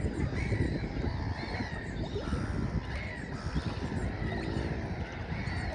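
Several small birds calling with short chirps over a steady, irregular low rumble.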